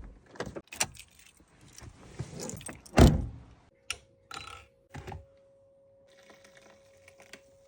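Sounds of getting into a car: clicks and rattles, then a car door shutting with a heavy thunk about three seconds in. A faint steady tone sets in just after and holds.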